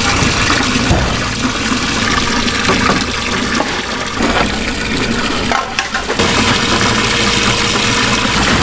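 Water running and splashing steadily, dipping briefly about two-thirds of the way through.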